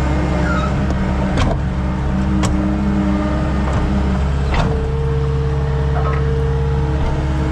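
Skid steer engine running steadily under work, with three sharp clanks and a higher whine that comes in about halfway through.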